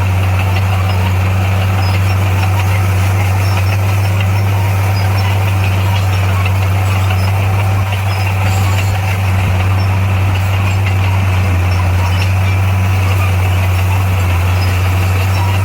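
Diesel engine of heavy earthmoving machinery running steadily at a constant low pitch, with a brief dip in level about eight seconds in.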